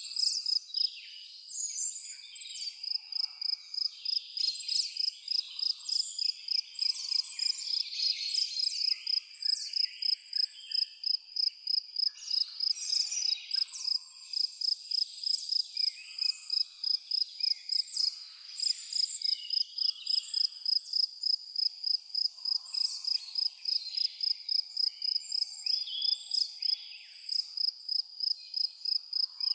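An insect, likely a cricket, chirping in a steady high-pitched rhythm about three times a second, over a chorus of songbirds calling and twittering.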